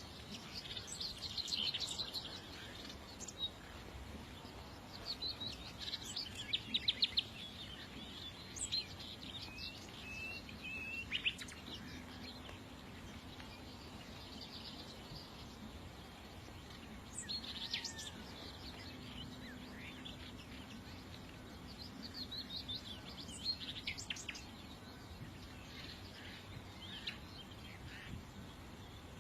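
Small songbirds chirping and twittering in scattered bursts of short, high notes and quick trills, over faint steady background noise.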